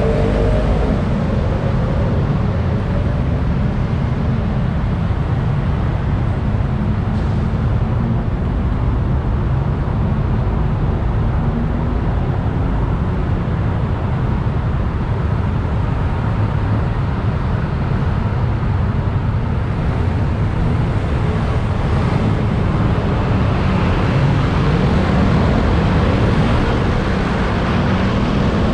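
Motorbike riding in city traffic: steady wind rush on the microphone over the bike's engine and surrounding traffic, with the engine rising in pitch about twenty-four seconds in as it speeds up.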